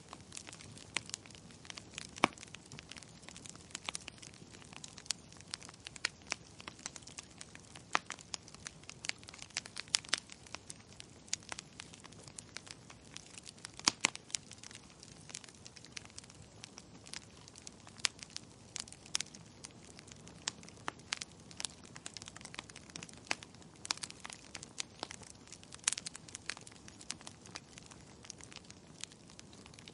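Wood fire in a fireplace crackling, with irregular sharp snaps and pops over a faint steady hiss.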